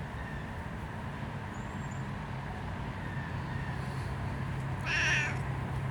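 A domestic cat gives one short meow about five seconds in, over a steady low hum.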